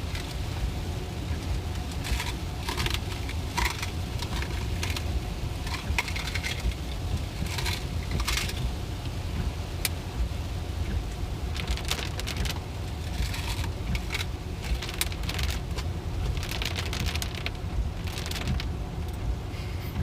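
Steady road and tyre rumble inside a Tesla electric car's cabin on a wet road, with irregular crackling and rustling on top.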